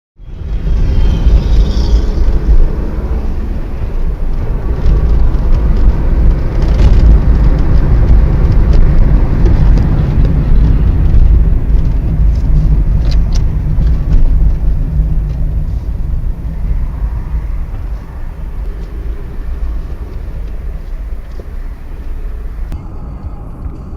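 A moving car's engine and tyre rumble as picked up by a dashcam microphone, a loud low rumble with a few faint ticks. It eases off somewhat in the later part.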